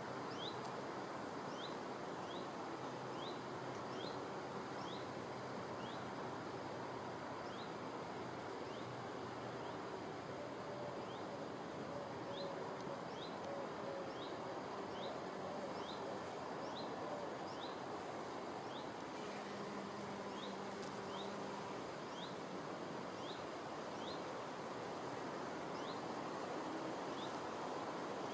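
Outdoor field ambience: an even hiss with a bird repeating a short, high, rising chirp about twice a second in runs, and the faint hum of a bee's wings passing now and then.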